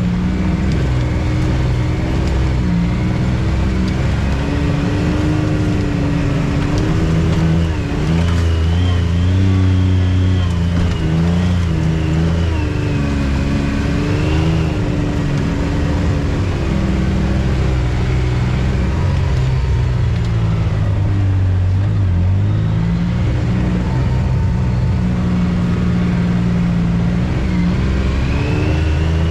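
Off-road vehicle engine running along a trail under changing throttle, its pitch rising and falling continually. A fainter high whine rises and falls with it.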